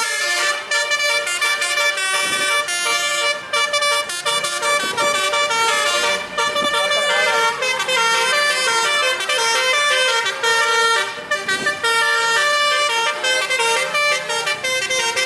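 Basuri truck horn, a set of tuned air horns, playing a melody of held notes that step up and down without pause.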